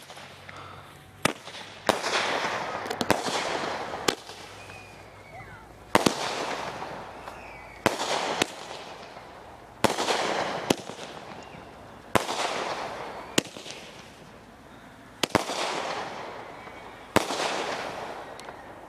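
Multi-shot consumer firework going off: about a dozen sharp bangs a second or two apart, each followed by a fading crackle.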